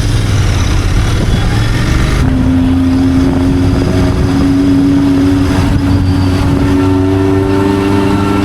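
Motorcycle riding in traffic: a steady engine and road rumble, joined about two seconds in by a strong held pitched tone that slowly rises in pitch.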